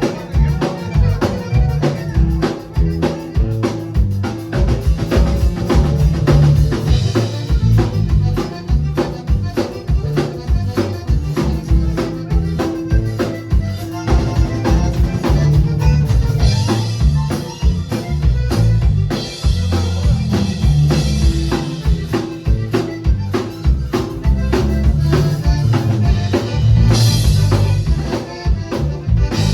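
Live band music with a drum kit driving a steady, busy beat over a heavy low end, with an accordion jamming along.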